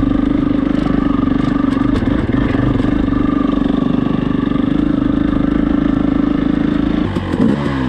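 Four-stroke dirt bike engine lugging steadily at low revs in third gear with an even chugging note. Near the end the revs drop as the bike slows.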